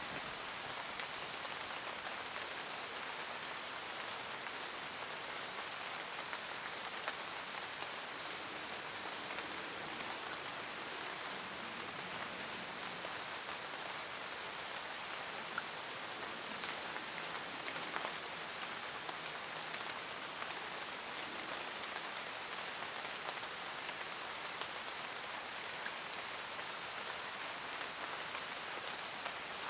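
Steady forest rain: a dense, even patter of raindrops with scattered louder single drops.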